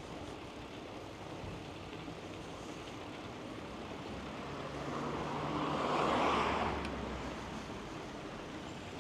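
A motor vehicle passing by over steady background noise. Its sound builds about four seconds in, is loudest around six seconds and fades within about a second after.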